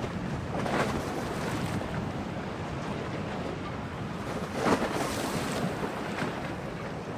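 Stormy harbour waves splashing and washing against the shore under steady gusting wind. Louder splashes surge about a second in and, loudest, near five seconds in.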